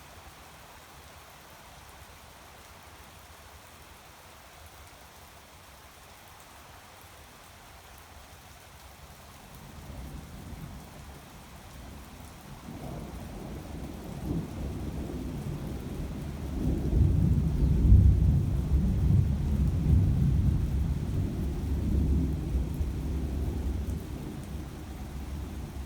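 Steady rain with a long roll of thunder. The thunder starts to build about ten seconds in, is loudest in the middle of its roll, then slowly rumbles away under the rain.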